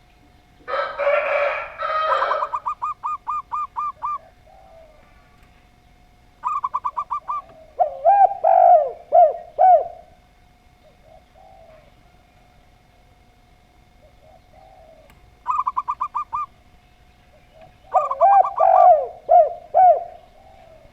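Zebra dove and spotted dove cooing in three bouts. Each bout is a quick run of short, evenly spaced notes, the second and third followed by four lower, swooping coos. A faint steady hum runs underneath.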